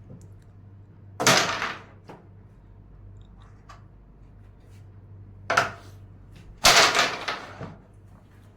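Carrom pieces struck on a wooden carrom board: three sharp clacks, a loud one about a second in, a short one about five and a half seconds in and another loud one about a second later, each trailing off briefly.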